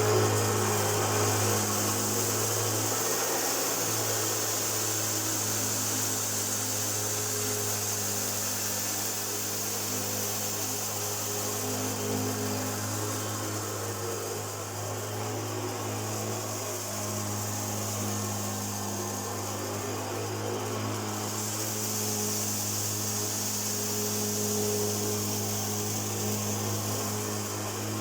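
Hoover Junior U1412 upright vacuum cleaner running: a steady motor hum and high airflow hiss, the hiss swelling and easing now and then.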